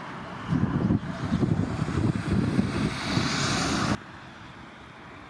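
Wind buffeting the microphone in irregular gusts, with a hiss swelling just before it cuts off abruptly about four seconds in.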